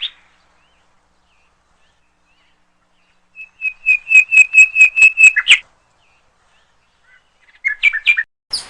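Parrot calling: after a silent start, a rapid run of sharp, high chirping calls lasts about two seconds. A few more calls follow near the end.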